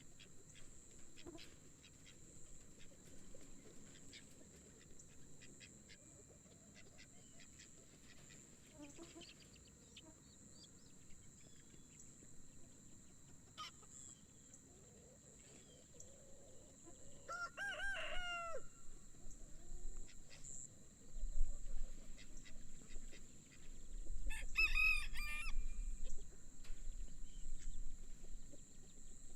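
A rooster crowing twice, once about 17 seconds in and again, longer, about 24 seconds in, with faint clucking between and some low thumps near the end.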